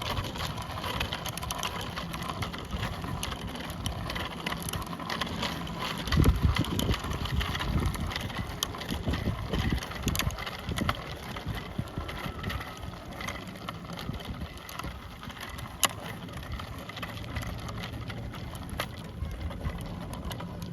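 Wind rushing over the microphone of a bicycle being ridden, with tyre noise and scattered small clicks and rattles from the bike; the wind is strongest about six seconds in.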